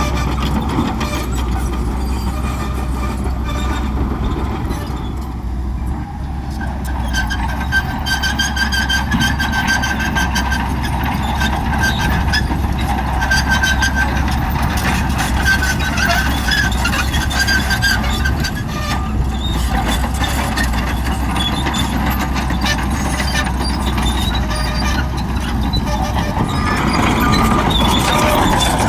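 Crawler bulldozer's diesel engine running steadily while working, with a high-pitched metallic squeal from the running gear coming and going.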